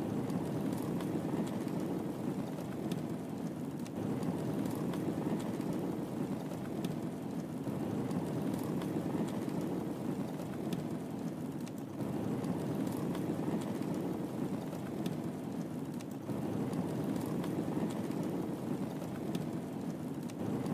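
Wood fire crackling in a fireplace: a steady low rush of flames with scattered sharp pops and snaps.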